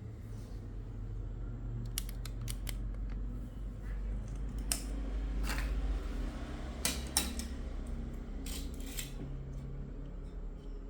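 Small metal tools and parts clicking and clinking in irregular handfuls during bench repair work, over a low steady hum.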